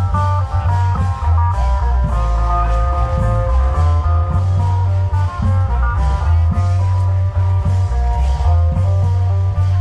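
Isan klong yao (long drum) band music: a loud amplified plucked-string melody that keeps changing notes, over a heavy bass and frequent drum hits.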